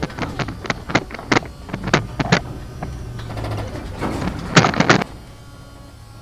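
A machine running with a low steady hum under a rapid, irregular series of sharp knocks and clatter, loudest in a quick burst near the end; the hum and knocks then stop about five seconds in.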